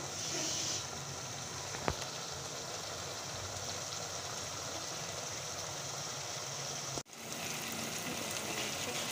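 Minced meat and chopped green capsicum sizzling gently in oil in a pan, a steady hiss. There is a single light click about two seconds in and a brief break about seven seconds in.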